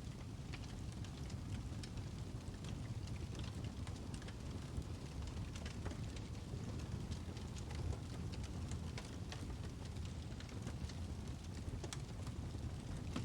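Birch logs burning in a fireplace, crackling with scattered sharp pops over a steady low rumble of the fire.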